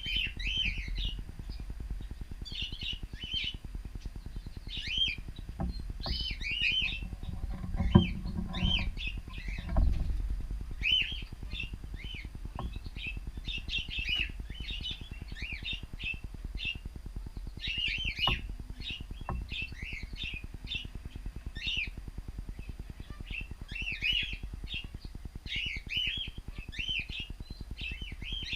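Cockatiels chirping over and over in short calls, several birds calling back and forth. A sharp knock about eight seconds in, with a low rumble and another knock about two seconds later.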